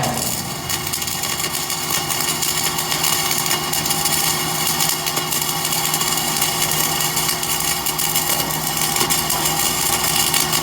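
Flux-core arc welder laying a bead: the steady crackling sizzle of the arc, which cuts off suddenly.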